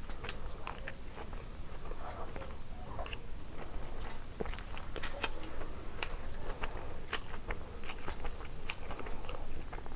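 A person eating: biting and chewing food, with irregular sharp crunchy clicks scattered through.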